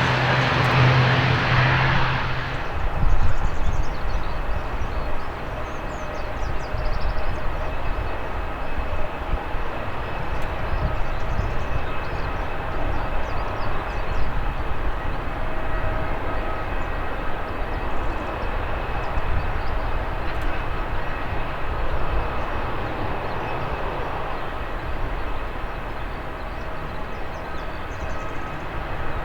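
Strong wind buffeting the microphone, with the faint steady hum of an ATR 72-600 turboprop's engines running before takeoff. For the first couple of seconds a louder rushing turboprop noise is heard, and it cuts off suddenly.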